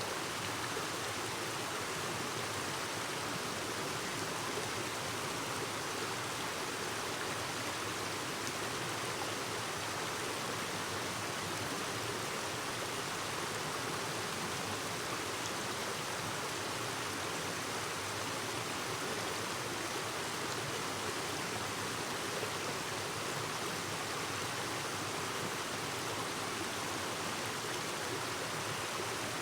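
Clear mountain stream flowing over rocks: a steady babble of running water that doesn't change.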